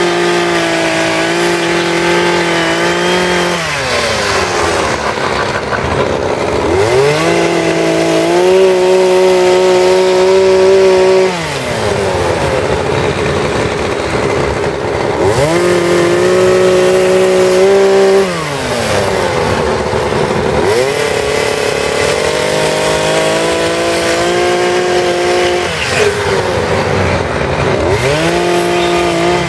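Two-stroke chainsaw cutting wood: it revs up and holds at full speed for three or four seconds, then drops back and revs up again, four times over, with a fifth rise near the end.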